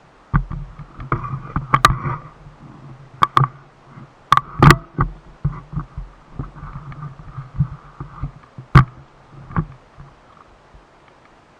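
Irregular close knocks, clicks and bumps over a low rumble, like handling noise right at the microphone. The loudest knocks come around a third of the way in and again past the middle.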